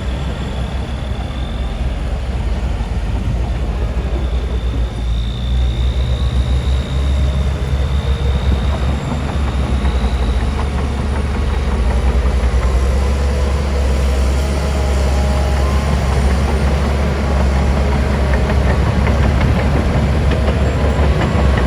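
Heavy diesel earthmoving machinery running, a steady low engine drone that grows louder about five seconds in, with a thin high whine coming and going over it.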